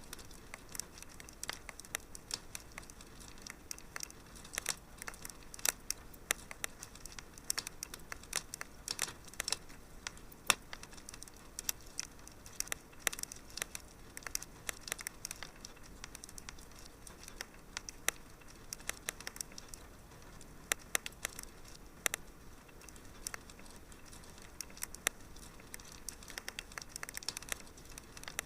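Wood fire crackling in a fireplace: many sharp, irregular pops and snaps over a faint steady hiss.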